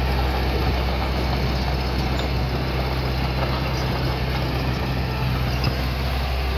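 Diesel engine of heavy earthmoving equipment running steadily, a constant low drone with a noisy mechanical wash on top.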